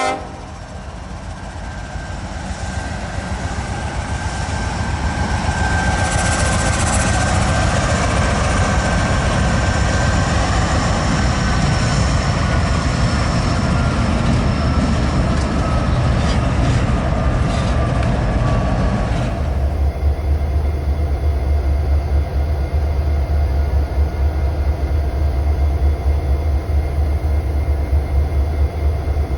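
A passing train rumbling louder over the first several seconds, with a thin high tone that slowly falls in pitch. After an abrupt cut near the end, a steady, heavy low rumble from a train.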